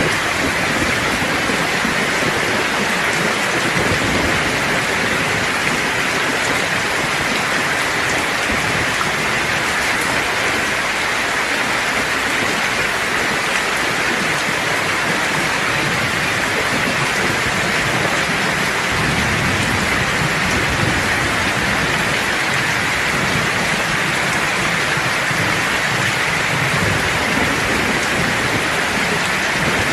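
Steady rain hissing, with a low rumble of thunder swelling in the bass about two-thirds of the way through.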